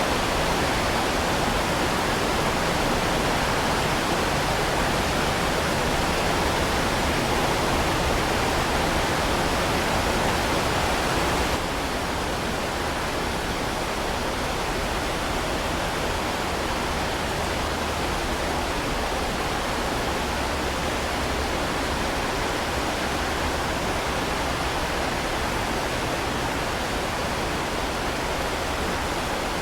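Heavy rain falling steadily, a dense even hiss. About twelve seconds in it drops abruptly to a slightly quieter, duller hiss, like a splice in the recording.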